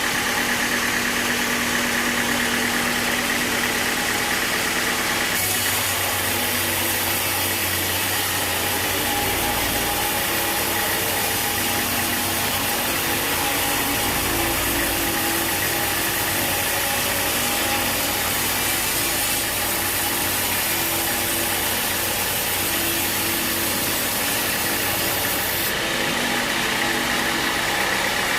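Sawmill machinery running steadily, a loud even engine-like hum with several steady tones. Its character changes abruptly about five seconds in and again near the end.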